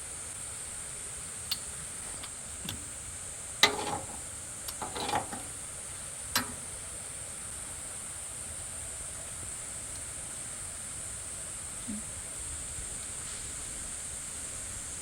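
A steady high hiss with a few scattered sharp clicks and knocks in the first half, the loudest about three and a half seconds in.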